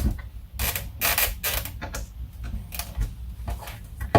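Irregular plastic clicks, creaks and light rattles as a car instrument cluster's plastic clips are pried and unsnapped by hand.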